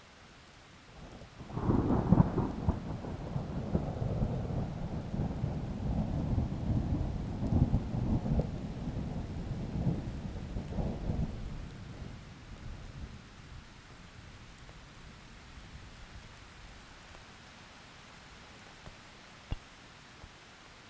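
A thunderclap over steady rain: about a second and a half in, thunder breaks with a crackle and rolls on in rumbles for about ten seconds before fading, leaving the soft hiss of rain.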